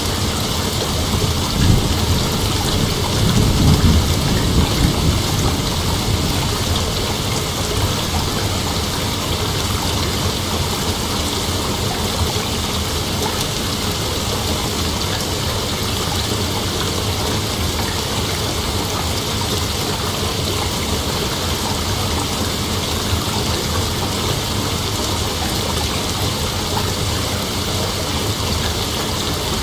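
Dense, steady chorus of night insects, a continuous high hiss, with a low rumble swelling for a few seconds near the start.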